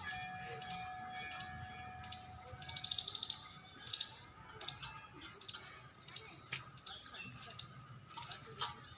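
Small birds chirping over and over in short high calls, with one quick rattling trill about three seconds in. A faint steady tone sounds under the first few seconds.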